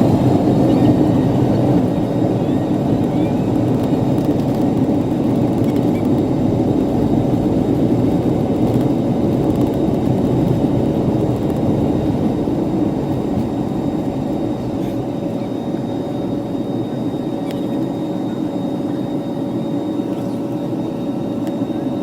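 Jet airliner engines heard from inside the passenger cabin: a loud, steady rushing drone with a faint steady whine running through it.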